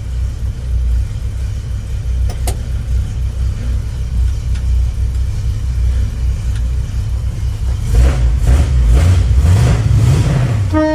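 Small-block 350 V8 of a 1960 Chevrolet C10 pickup idling steadily, then revved briefly about eight seconds in, rising and falling before settling.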